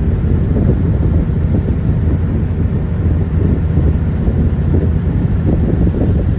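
Sightseeing tour boat under way, its engine running with a steady low rumble.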